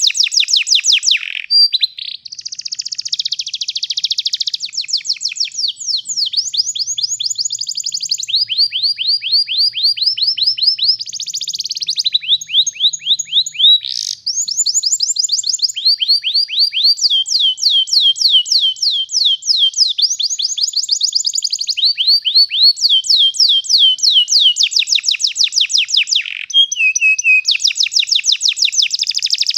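Domestic canary singing a long rolling song of fast trills, each made of rapidly repeated downward-sweeping notes. The phrases change in pitch and speed with hardly a pause between them.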